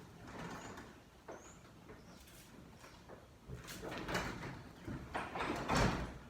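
A heavy sectional garage door being moved by hand along its tracks, its rollers and panels rumbling and rattling. It grows loudest near the end.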